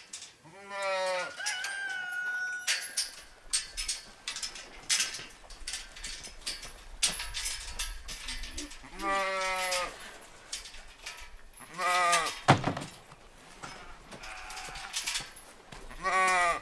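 Sheep bleating: about four wavering calls a few seconds apart, one near the start, two in the middle and one at the end, with scattered clicks and knocks between them.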